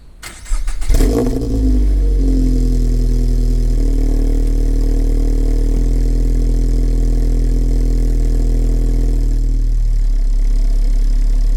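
Toyota GR86's 2.4-litre flat-four starting up through an aftermarket HKS exhaust manifold and Kakimoto Class KR exhaust: it catches with a flare about a second in, then settles into a steady fast idle-up at about 1200 rpm.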